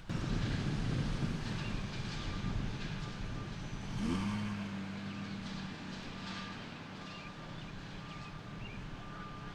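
An engine running over a low rumble, its pitch rising about four seconds in and then holding steady.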